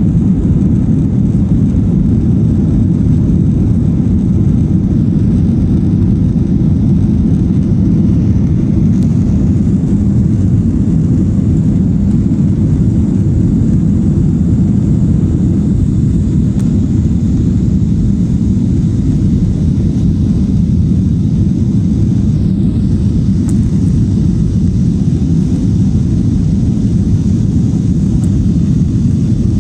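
Airliner cabin noise in flight: a steady, loud, low rumble of engines and rushing air heard from inside the cabin, unchanging throughout.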